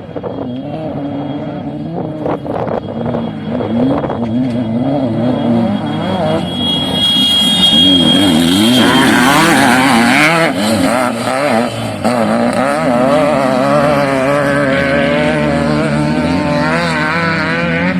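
Off-road vehicle engine running with its revs rising and falling unevenly, growing louder about a third of the way in.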